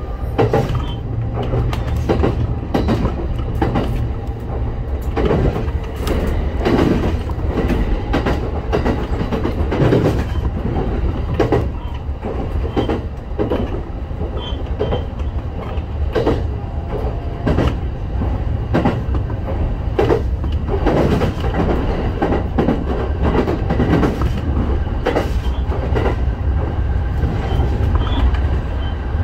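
Train running along the line, heard from inside the train: a steady low rumble with regular wheel clacks over the rail joints.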